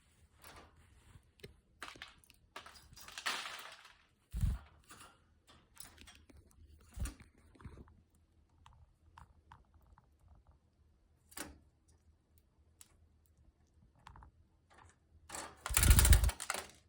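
Scattered small taps, clicks and rustles of a pet Java sparrow moving about, with a longer rustle about three seconds in and a loud flurry with a low thump near the end.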